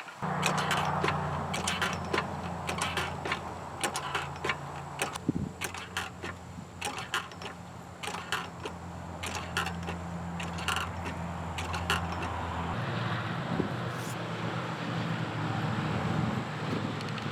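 A motor running steadily with a low, even hum, over scattered clicks and knocks of handling. About 13 seconds in, its pitch shifts and it gets noisier.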